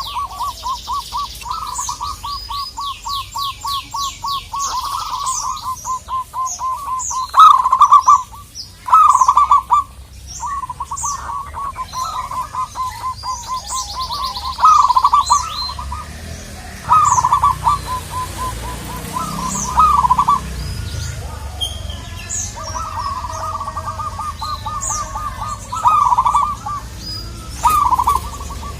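Zebra dove (perkutut) cooing: long fast runs of short, even coo notes broken every few seconds by louder, longer coos. Smaller birds chirp high above it.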